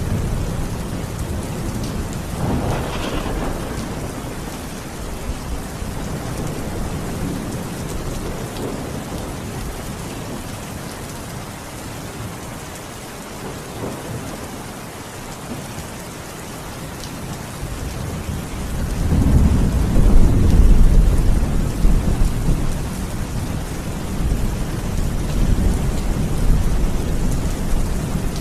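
Steady rain with thunder: a short rumble a few seconds in, then a louder, longer roll of thunder building from about two-thirds of the way through.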